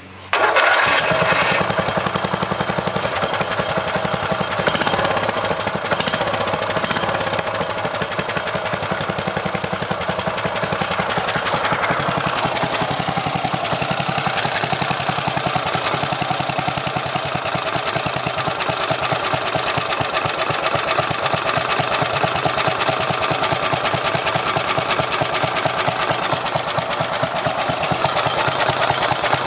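Freshly rebuilt 12 hp Briggs & Stratton engine on a Craftsman tractor running steadily at a fast, even firing rhythm, coming in suddenly just after the start. The owner judges it to be running a little rich on its oversized main jet.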